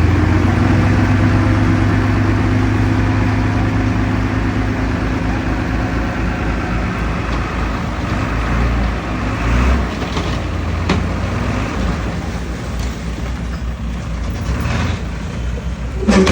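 Heavy diesel engine of earthmoving machinery running steadily, its low drone easing off in the middle and coming back up near the end. A sharp clank comes about eleven seconds in, and a louder knock comes just before the end.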